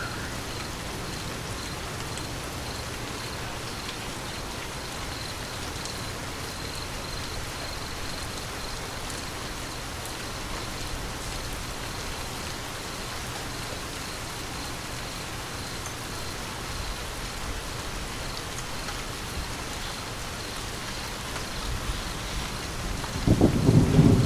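Steady rain falling, with a low rumble of thunder swelling in loudly near the end.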